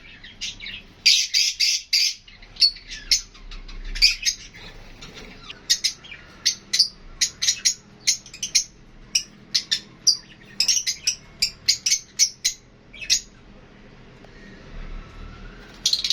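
Lovebirds chirping: many short, high-pitched calls in quick runs, with a lull of a couple of seconds near the end before a dense burst of chirping.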